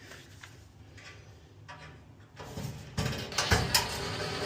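Quiet for about two seconds, then rustling with a few sharp clicks and knocks as hands handle parts and wiring inside a dryer.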